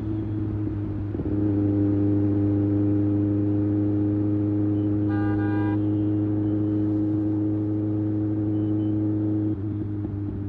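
2024 Kawasaki ZX-6R's 636 cc inline-four running at a steady highway cruise. The throttle opens about a second in, holds an even drone, and eases off near the end. About halfway through comes a brief, high horn toot, most likely from another vehicle.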